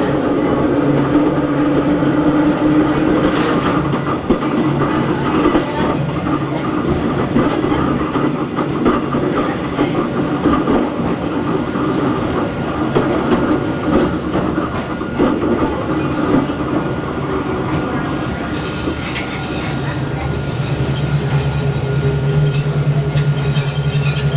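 Hakone Tozan Railway Moha 1 type No.106 running, heard from inside the car: the hum of its nose-suspended SE121-A traction motors and gears under a steady clatter of wheels on rail. About two-thirds of the way in a high, steady wheel squeal sets in, and the motor hum grows louder near the end.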